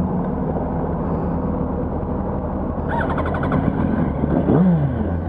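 Yamaha R1's inline-four engine idling steadily, with a brief higher-pitched sound about three seconds in.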